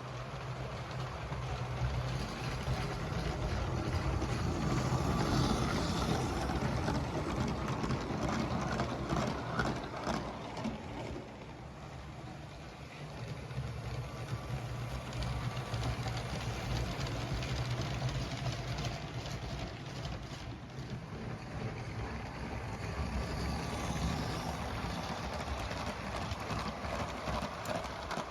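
LEGO train running on plastic track: the motor's steady whir with the clicking of wheels over rail joints, growing louder twice as the train passes closer.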